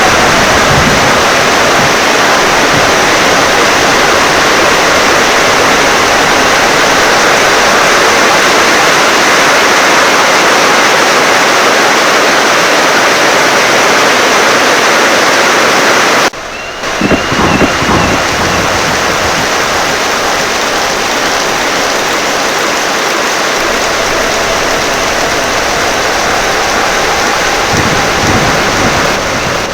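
Heavy rain pouring in a steady, dense hiss. Just past halfway the level drops suddenly for a moment, then low rumbles of thunder come in, and again near the end.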